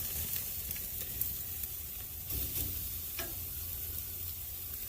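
Strip steak sizzling on a very hot charcoal grill grate just after being flipped, a steady hiss with a few faint clicks.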